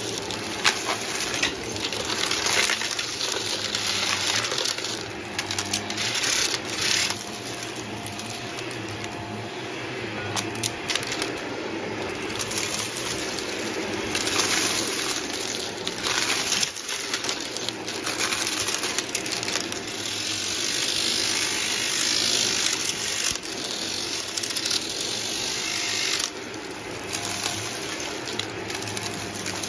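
Numatic Hetty vacuum cleaner running steadily, sucking up a dry debris mix through its hose and metal wand, with bits clicking and rattling up the tube.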